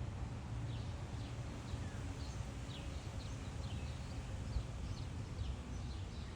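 Small birds chirping, short falling notes scattered every half second or so, over a steady low background rumble.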